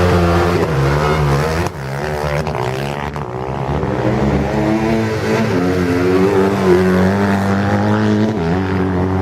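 Racing motorcycle engines running hard, their pitch rising and falling as they accelerate and ease off, with a short drop in level about two seconds in.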